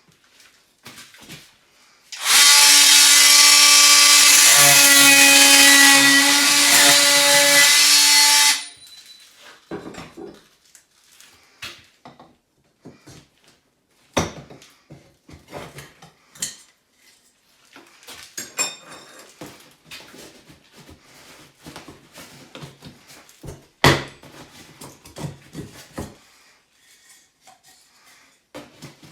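An electric motor tool runs loudly and steadily for about six seconds, its pitch shifting about two seconds in, then stops. Scattered knocks and clatter of handling follow, with one sharper knock near the end.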